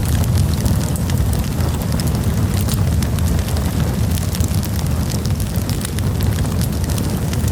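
Wood campfire burning: frequent sharp crackles and pops over a steady low rumble.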